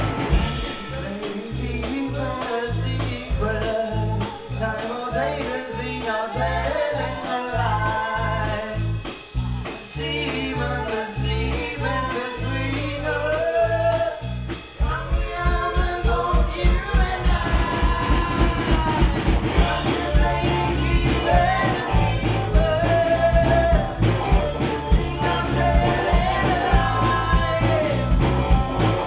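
Live band music: a singer over guitar, accordion, bass and drums, in a swinging rock style. About halfway through the drums shift to a busier, more driving beat.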